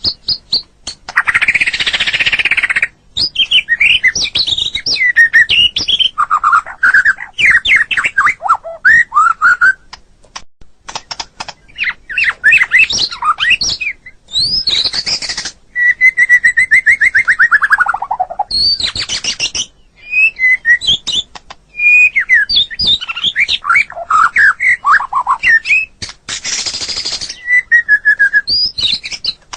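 White-rumped shama singing a fast, varied song of whistled phrases and rapid trills. Several short harsh, noisy bursts break it up, and near the middle comes one long trill that falls steadily in pitch.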